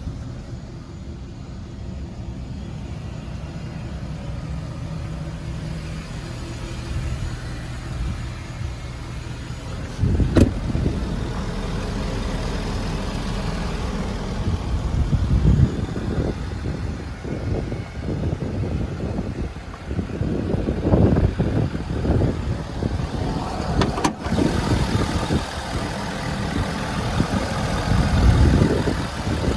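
Ford 6.7-litre Power Stroke V8 turbo-diesel in a pickup starting about ten seconds in, then running with its level rising and falling several times.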